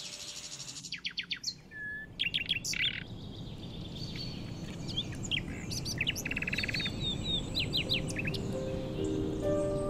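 Songbirds chirping and singing, many short quick high notes and trills, over a soft even background hiss; music fades back in near the end.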